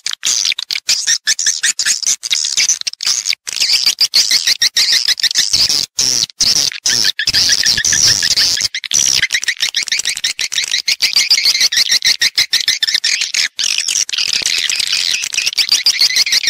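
Edible-nest swiftlets twittering and chattering in a dense, continuous high-pitched chorus. This is the call-and-roost lure sound played in swiftlet houses to draw the birds in to nest.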